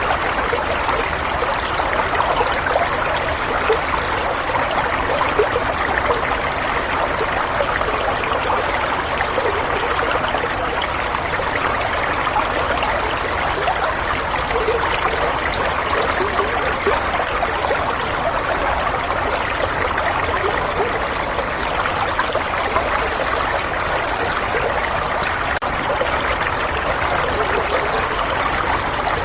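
Flowing water running steadily, a continuous trickling and splashing that never pauses.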